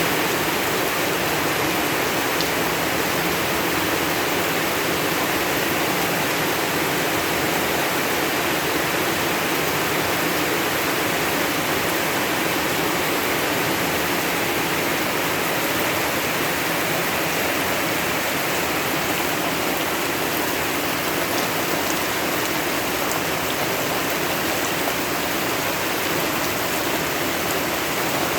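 Steady rain falling, a dense even hiss with a few sharper drop ticks now and then.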